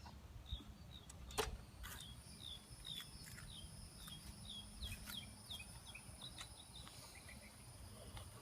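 Faint outdoor background noise with a bird calling a long run of short, high chirps, about two or three a second, and a few sharp clicks.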